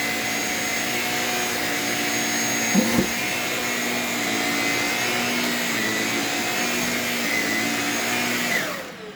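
Shark Rocket cordless stick vacuum running steadily with a high motor whine, with a brief knock about three seconds in. Near the end it is switched off and the whine falls away as the motor spins down.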